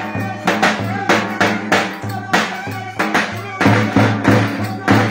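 Live wedding dance music: a steady, driving drum beat of about three hits a second over sustained low instrument notes.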